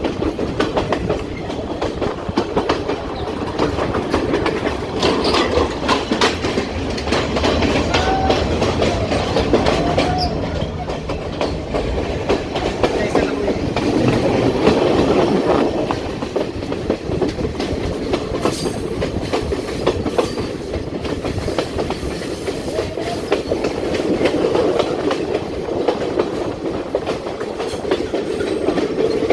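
Passenger train running along the track, wheels clicking over rail joints with a steady rumble and a few brief high squeals from the wheels.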